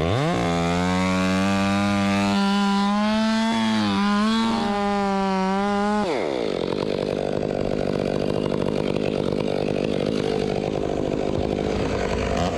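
Chainsaw revved up to full throttle and held there for about six seconds, the pitch dipping slightly near the middle. The throttle is then released and the pitch falls away into a lower, steady running sound.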